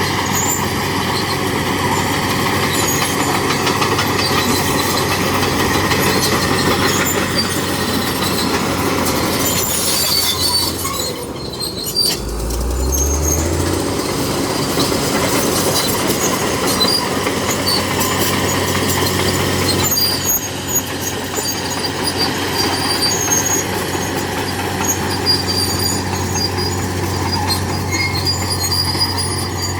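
Crawler bulldozer working: its diesel engine runs steadily, with high squeaks and clanks from the steel tracks. The engine briefly drops in pitch about twelve seconds in, then picks up again.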